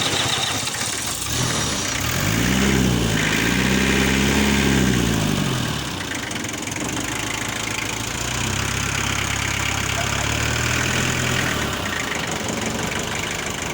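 Mitsubishi 145 hp four-cylinder engine running just after starting: its pitch rises and falls twice a couple of seconds in, as it is revved, then it settles into a steady idle.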